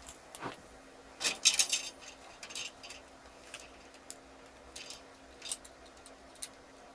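Light plastic clicks and short rustles from small objects being handled, scattered irregularly, with a denser burst a little over a second in. A faint steady hum runs underneath.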